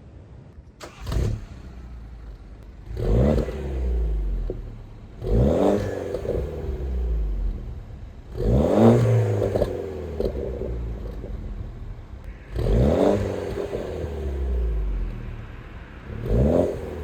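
BMW F30 320i's turbocharged four-cylinder engine, with an extra exhaust outlet added after the rear muffler and a Stage 1 tune, revved in about six separate throttle blips, each rising in pitch and falling back to idle.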